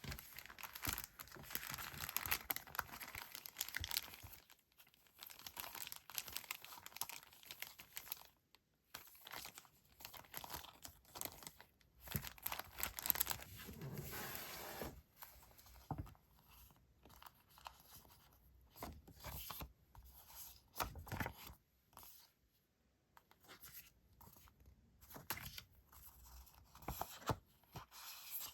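Paper and packaging being handled close up: crisp rustling, crinkling and tearing-like sounds in irregular bursts with short pauses between them.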